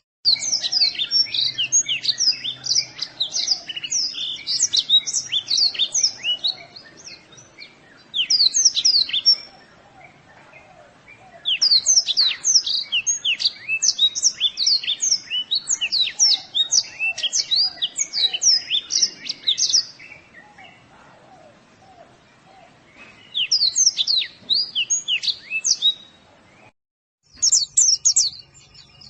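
White-eye (pleci) song from a masteran tutoring recording: long phrases of rapid, high sweeping chirps and twitters separated by short pauses. The sound cuts out completely for a moment near the end, then the song resumes.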